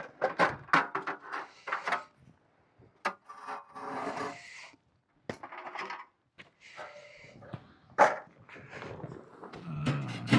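Parts of a tent wood stove and its chimney pipe being fitted together by hand: a quick run of knocks, then stretches of scraping and rubbing, and a single hard knock about eight seconds in.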